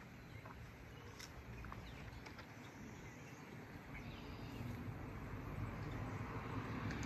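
Outdoor woodland ambience with a few faint, short bird chirps. A low rumble grows steadily louder through the second half.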